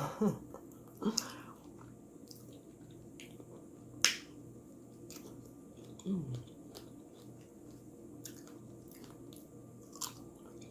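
A person eating: quiet chewing with scattered sharp clicks, the loudest about four seconds in, and a short low hum about six seconds in.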